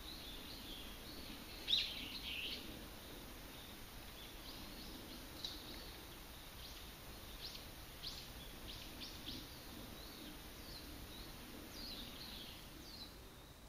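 Small birds chirping off and on, short high calls scattered throughout with the loudest cluster about two seconds in, over a faint steady background hum.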